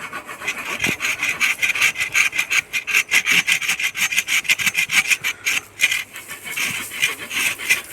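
Hand saw cutting through a wooden log in quick, steady back-and-forth strokes, several a second.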